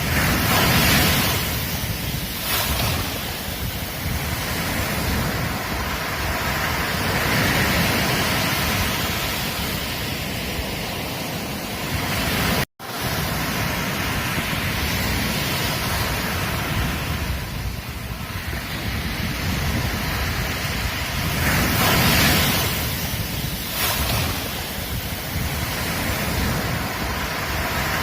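Ocean surf washing onto a beach as a steady rush that swells and fades as waves break, with some wind on the microphone. The sound drops out for an instant about halfway through.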